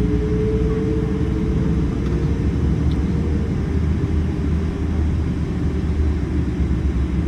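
Steady low rumble of a Boeing 777-300 airliner, with a faint whine that dips slightly in pitch early on.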